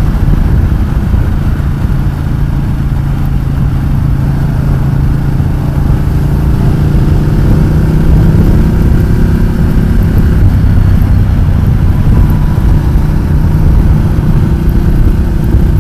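Ducati Multistrada 1200 S's L-twin engine running steadily while riding in traffic, under a constant low rumble of wind and road noise.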